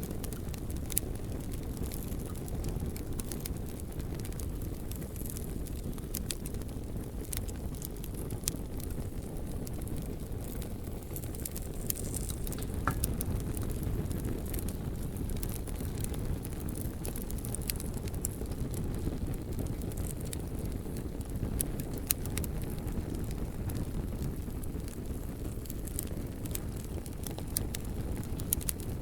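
Campfire burning and crackling: frequent small sharp pops and snaps scattered over a steady low rumble.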